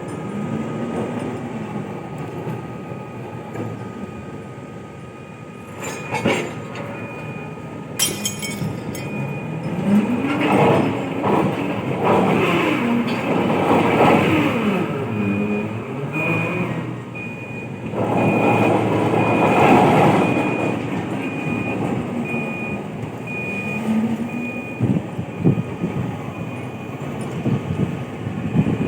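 P&H 4100XPC electric mining shovel at work, its drive motors whining in pitch glides that rise and fall as they ramp up and down. Two sharp knocks come early on, and a repeating high beep sounds through the second half.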